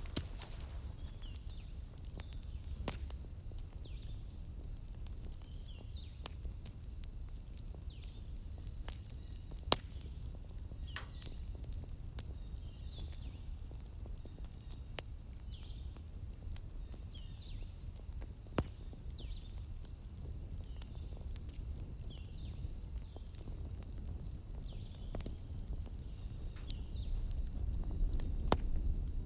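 Wood fire in a fireplace crackling, with a sharp pop now and then over a low steady rumble. A high, evenly repeating chirp runs faintly in the background.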